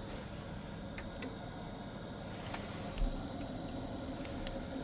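Biasi combi boiler running with a steady low hum; about halfway through a thin high-pitched whine starts and holds as the boiler responds to hot water demand from the opened tap, a sign the new flow switch is working.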